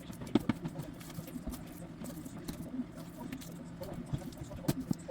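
Scattered light clicks and taps of things being handled, over a steady low hum.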